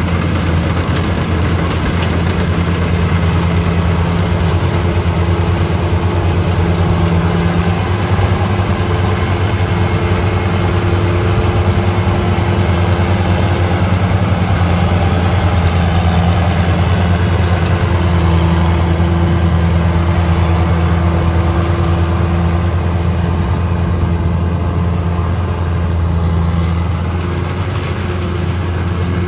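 World Star WS7.0 tracked combine harvester running steadily, its diesel engine droning with the threshing machinery under load.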